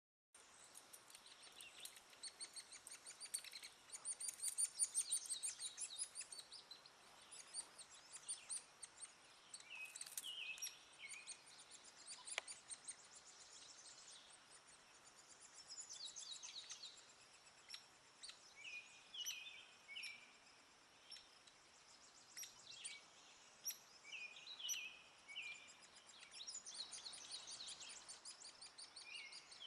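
Hairy woodpecker chicks begging: runs of rapid, high, thin chirps that keep starting and stopping, with shorter lower notes between them.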